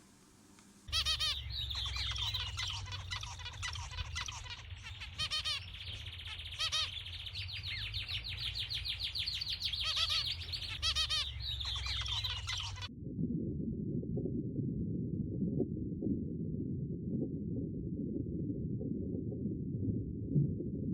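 Birds chirping and trilling in rapid repeated notes over a low rumble. After about twelve seconds it cuts abruptly to a continuous low rumbling sound with no high notes.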